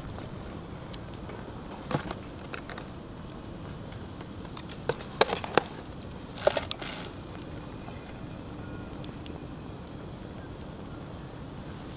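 Wood fire crackling in a fire pit, with scattered sharp pops over a steady low hiss; a cluster of louder pops about five to seven seconds in.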